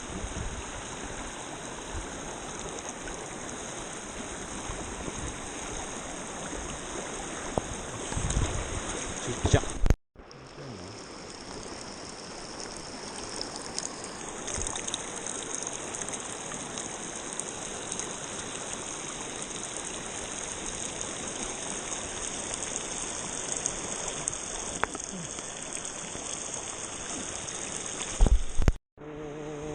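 River water rushing steadily over shallow rapids, with a few low bumps near the middle and near the end. The sound breaks off briefly twice.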